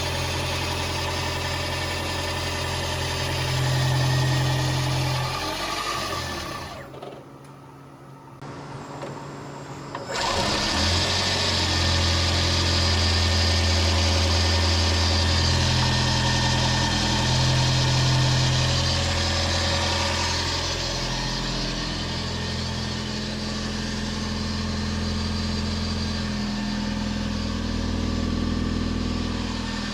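Toyota Aqua NHP10 hybrid's 1.5-litre four-cylinder petrol engine idling. It shuts off about seven seconds in and restarts about three seconds later, as the hybrid system stops and starts it, then runs steadily again.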